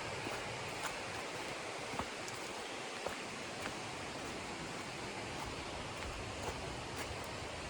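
River water running with a steady, even rush. A few faint, sharp clicks are scattered through it.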